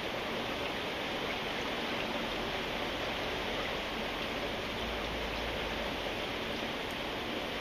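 Steady rain falling, an even hiss of rain without change.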